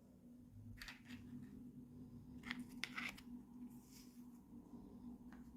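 Faint scattered clicks and rustles of toy packaging being handled, five soft ones spread over the few seconds, over a low steady hum.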